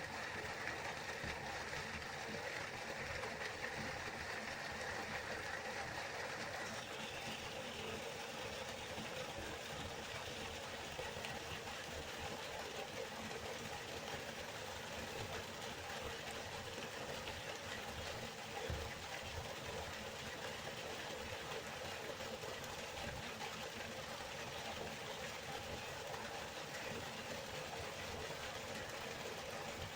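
River water flowing steadily, an even rushing noise. A faint higher steady sound that rides on top of it stops about seven seconds in.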